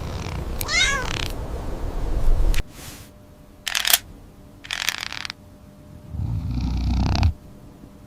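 Cat purring in two long stretches, with a short wavering meow about a second in and two brief bursts of hiss-like noise in between.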